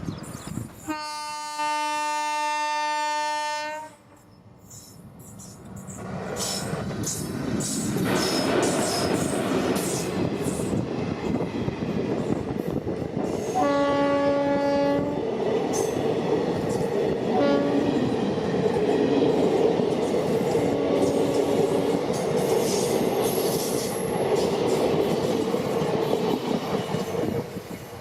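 Indian Railways WAP 4 electric locomotive sounding a long horn blast about a second in. The train then rolls past with wheels clattering over rail joints. Mid-way comes another horn blast and a couple of short toots, and the rolling noise drops off near the end.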